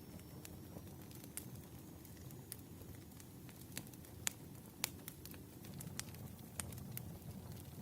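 Campfire crackling: a low, steady rumble of burning with scattered sharp pops and snaps, a few louder ones about halfway through.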